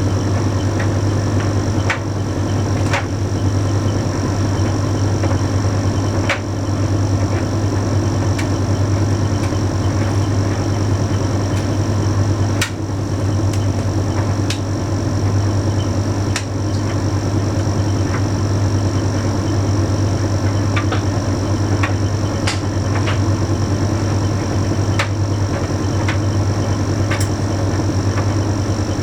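Bosch Series 6 heat pump tumble dryer running mid-cycle: a steady low hum from the motor and heat pump, a faint high whine, and irregular light clicks and taps as the load tumbles in the drum.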